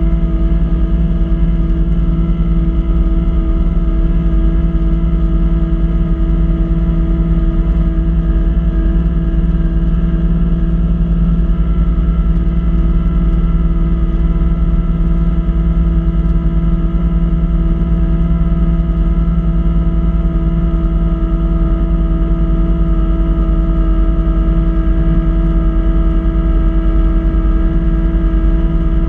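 Kubota B2650 compact tractor's three-cylinder diesel engine running at a steady, even speed while driving a front-mount snowblower.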